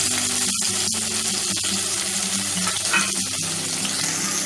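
Chopped onion and tomato frying in hot oil in a karahi, just added: a steady sizzling hiss with a few light clicks.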